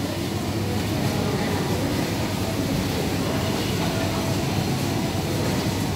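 Steady rumbling background noise of a busy wholesale supermarket.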